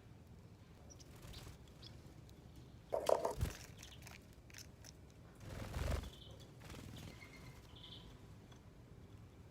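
Small garden birds landing at a feeder: two louder rough bursts of wingbeats and knocks, about three and six seconds in, with a few faint short chirps after the second.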